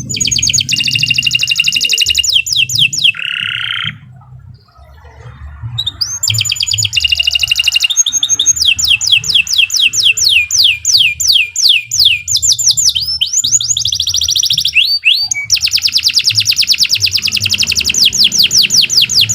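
Domestic canary singing long, rapid trills of fast repeated high notes, with sweeping phrases in between. The song breaks off about four seconds in and resumes about two seconds later.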